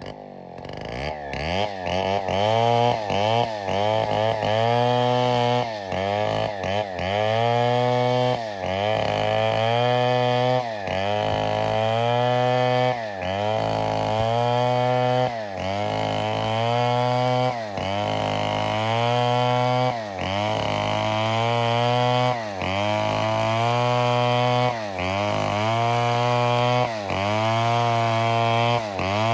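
Chainsaw running at high revs, its engine pitch dipping and recovering over and over, roughly every one and a half seconds.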